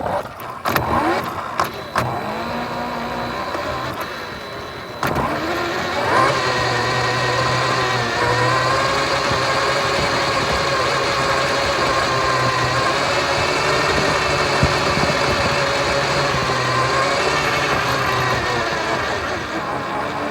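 A vehicle's motor running with a steady pitched hum. It gets louder about five seconds in, then holds nearly level with slight rises and dips in pitch, and eases off near the end.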